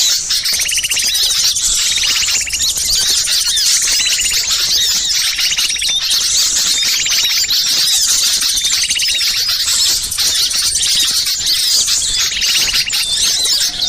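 Dense, loud chorus of many small songbirds chattering and calling in agitation, with a buzzy call repeating about once a second. This is an excited mixed-flock 'burcil ribut' bird-lure recording, made to draw wild birds in.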